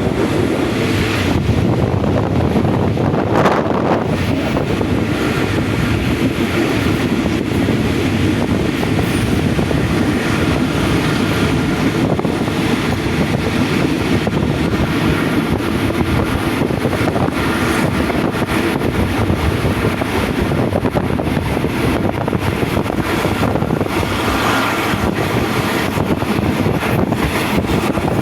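Locomotive-hauled passenger train running at speed, heard from on board: a steady rumble of wheels on the track mixed with wind noise.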